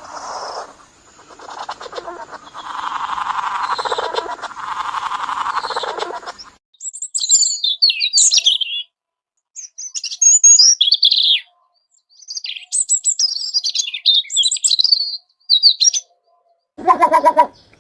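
Small songbirds calling. First comes a dense, fast, lower-pitched chatter for about six seconds. Then high-pitched chirps and twitters follow in separate bursts with sudden silent gaps between them, and a short lower call comes near the end.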